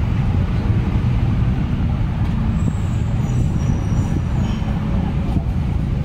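Steady low outdoor rumble of traffic and wind, with faint high squeals near the middle.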